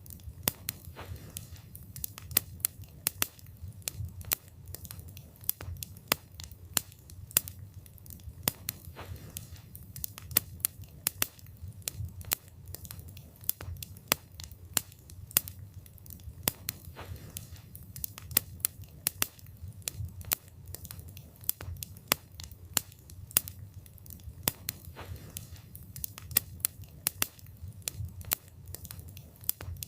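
Wood fire burning, the logs crackling and popping in many irregular sharp snaps over a low steady rumble of the flames.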